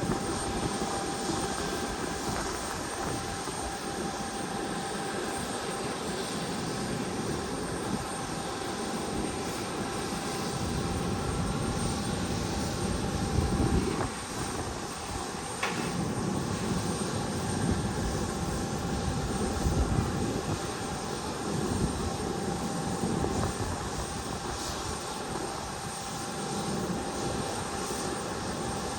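Airliner engines running steadily, with a constant high whine over a low, uneven rumble.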